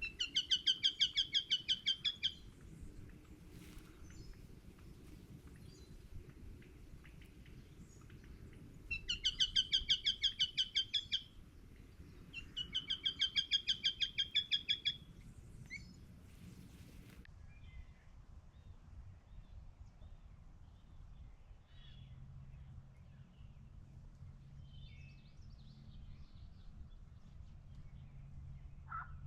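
A bird calling in three quick series of rapidly repeated high notes, each series about two seconds long, over a low outdoor background.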